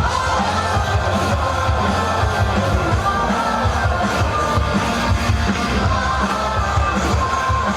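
Live rock band playing loud, with a singer over drums and electric guitars.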